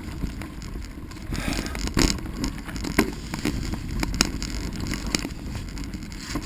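Bicycle being ridden along a dirt trail: a steady rumble of tyres on the ground, with sharp knocks and rattles about once a second as it goes over bumps and roots.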